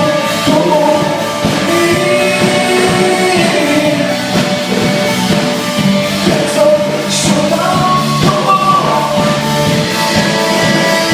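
Live rock band playing with a voice singing and guitar, captured loud and a little distorted on a phone.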